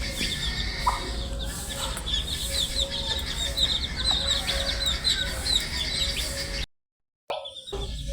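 A brood of baby chicks peeping: many short, falling peeps overlapping in a busy chorus over a faint steady hum. The sound cuts out to silence for about half a second near the end, then resumes.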